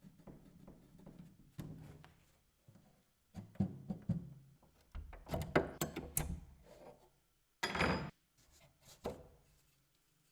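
Wooden furniture parts being handled and worked by hand: irregular knocks and thunks with short scraping rubs, and one longer scrape about eight seconds in.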